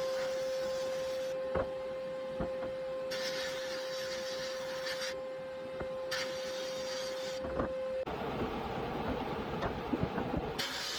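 Workshop machinery: a steady motor hum that stops about eight seconds in, giving way to a rougher rushing noise, with a high hiss switching on and off in bursts of one to two seconds and a few sharp clicks.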